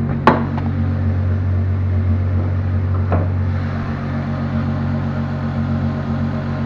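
Car engine idling steadily shortly after a cold start, after sitting for a couple of days. A sharp click comes about a third of a second in, and a fainter one about three seconds in.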